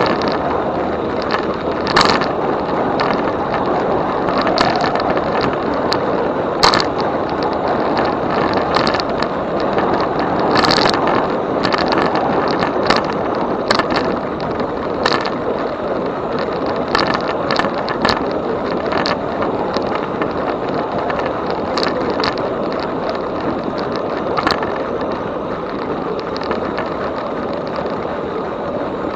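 E-bike on the move: steady rolling tyre and wind noise, with scattered sharp clicks and knocks.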